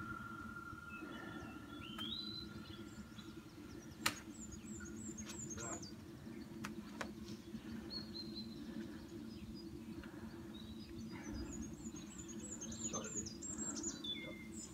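Small songbirds chirping and singing, with repeated short high phrases and runs of falling notes, clearest about two seconds in and again near the end, over a steady low hum. A single sharp tap sounds about four seconds in.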